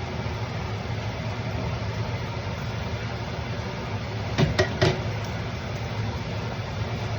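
Steady mechanical hum with a hiss over it, broken by two or three short clicks about four and a half seconds in.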